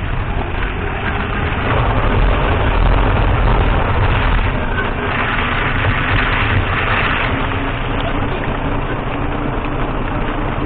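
Road noise and engine hum inside the cabin of a moving Datsun on-DO, with a steady low rumble. About five seconds in, a brighter, higher noise swells for roughly two seconds and then fades.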